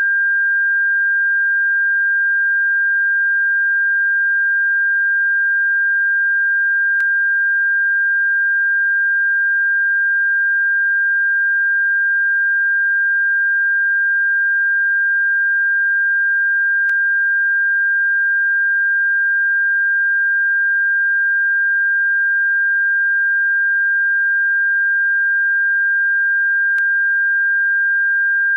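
An electronically generated pure tone played as a bird repellent: one steady, unbroken high-pitched whistle at constant loudness, with a faint click about every ten seconds.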